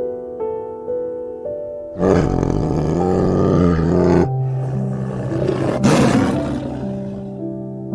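Tiger roaring: a long roar starting suddenly about two seconds in and a shorter one around six seconds, over soft piano music.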